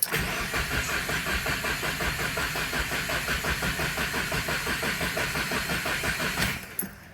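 Subaru WRX engine being cranked by its starter with the accelerator floored, a priming crank that does not catch: steady, even pulsing that stops about six and a half seconds in.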